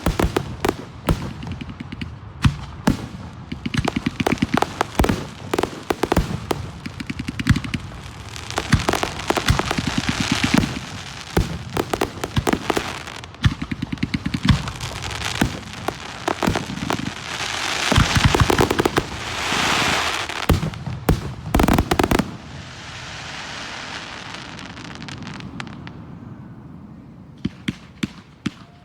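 Aerial fireworks display: rapid volleys of sharp shell reports mixed with stretches of hissing crackle. It thins out about two-thirds of the way through, with a few last bangs near the end.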